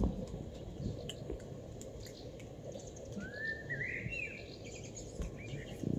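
A small bird calling outdoors over a faint steady background hum: a rising, warbling phrase about three seconds in and a shorter one about five seconds in.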